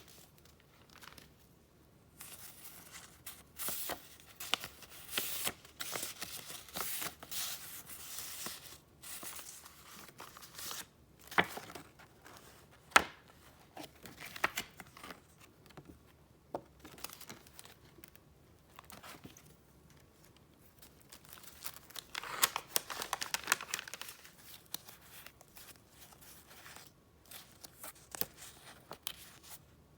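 Paper and wrapping being handled up close, rustling and crinkling in bursts, with a few sharp ticks and taps between them.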